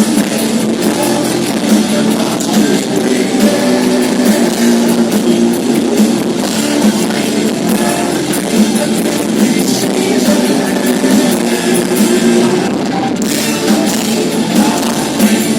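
Live rock band playing an instrumental passage, with electric guitar and drum kit, loud and continuous.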